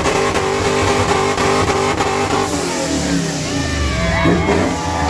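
Car engine held at high revs at a steady pitch. About halfway through, a tangle of high-pitched sliding sounds joins it.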